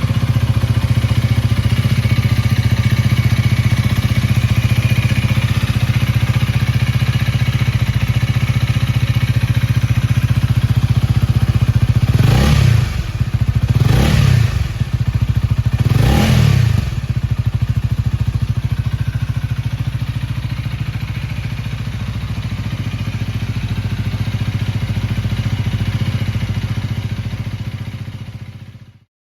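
Honda Rebel 250's single-cylinder engine idling, blipped three times in a row near the middle, each rev rising and falling back to idle. The sound fades out near the end.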